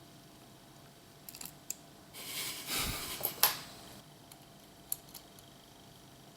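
Small clicks and taps of tools and small camera parts being handled, with a brief rustling swell in the middle followed by one sharper click.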